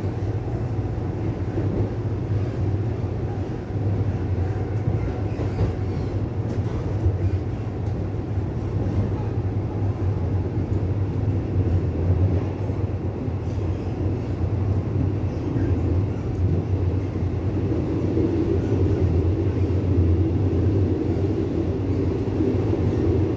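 Running noise inside a Taiwan Railway commuter electric multiple unit car between stations: a steady low rumble and hum from the wheels and traction motors, swelling slightly in the second half.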